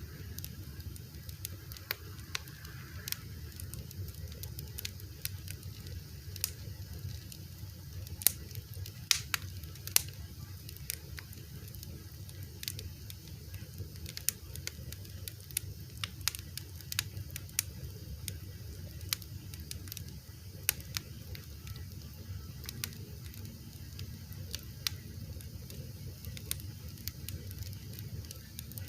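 Wood fire crackling, with irregular sharp pops, a few of them louder, over a steady low rumble of the flames.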